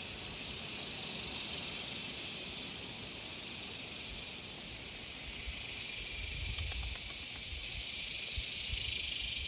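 Chorus of cicadas (locally called locusts), a steady high-pitched buzzing that swells and eases slowly in loudness.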